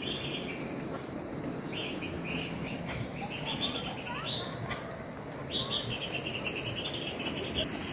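Forest birds singing in short runs of quick, repeated chirping notes, several phrases one after another, over a steady high-pitched insect drone.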